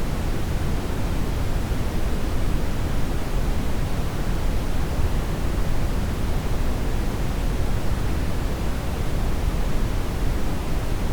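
Brown noise: a steady, even hiss weighted heavily toward the low end, with no change in level.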